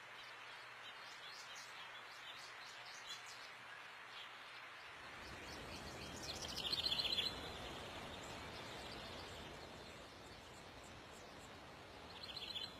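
Faint outdoor ambience of birds chirping over a steady hiss, which grows fuller about five seconds in. A louder, high trilling call comes about seven seconds in, and a shorter one near the end.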